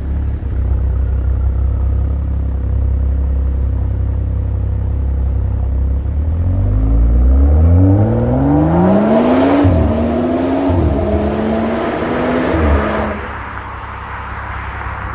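BMW N55 turbocharged inline-six engine and exhaust, first a low steady drone, then from about six seconds in accelerating hard: the pitch climbs, drops briefly at two upshifts, and the sound falls off sharply about thirteen seconds in.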